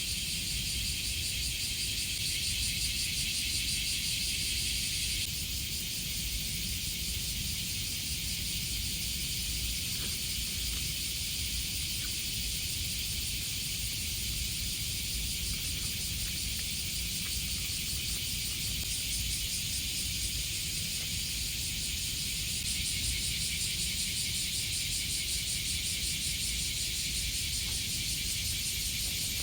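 Summer cicada chorus: a steady, high, pulsing buzz with a low rumble underneath.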